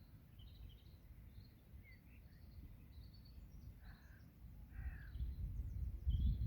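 Small birds chirping in quick, high notes, with a lower call about four seconds in and again about a second later. Under them runs a low rumbling noise that grows louder over the last couple of seconds.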